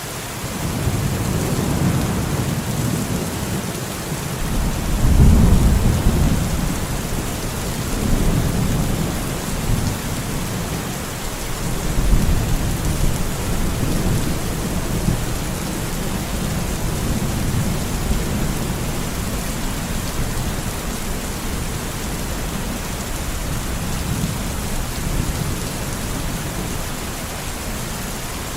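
Steady rain hissing, with low rolling thunder that swells and fades several times; the loudest rumble comes about five seconds in, with further swells around eight and twelve seconds.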